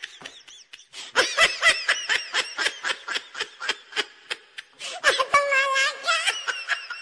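A woman laughing hard in quick, breathy bursts, about four or five a second, starting about a second in and ending in a higher, squealing laugh near the end.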